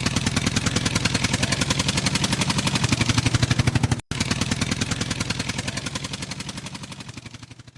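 Helicopter rotor chopping in quick, even beats, about a dozen a second, over a low hum. It breaks off for an instant about four seconds in, starts again and fades out near the end.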